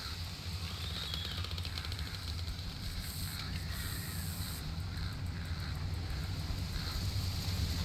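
Outdoor summer ambience: a steady low rumble that slowly grows louder, with faint bird chirps above it.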